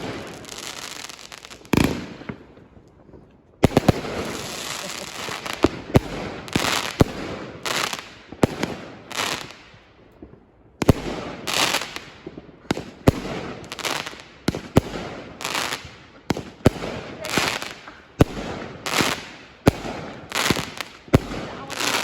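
Fireworks going off: a steady run of sharp bangs, often one or two a second, with crackling between them and two short lulls.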